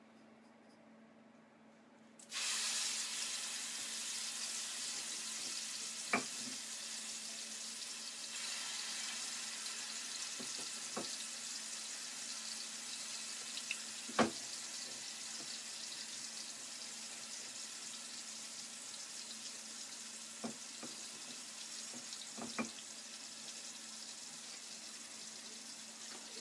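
Food sizzling in hot oil in a frying pan on a tabletop gas burner: the sizzle starts suddenly about two seconds in as the food goes into the pan, then slowly eases off. A few sharp clicks sound through it.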